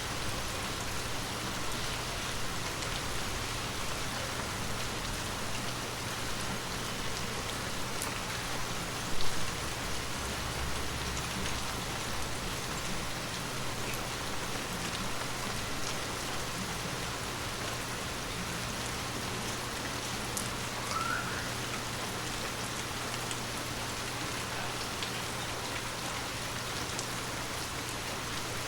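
Heavy rain falling steadily, a dense even hiss of drops, with a single brief louder thump about nine seconds in.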